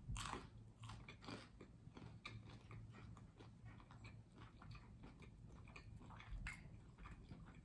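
Close-up biting and chewing of toasted sourdough bread: a crunchy bite at the start, then many small crisp crunches of chewing, with one louder crunch near the end.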